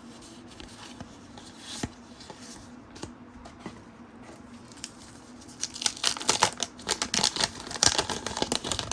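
Trading card pack being torn open, its wax-paper wrapper crinkling and tearing for the last few seconds. Before that, only a few faint clicks of cards being handled.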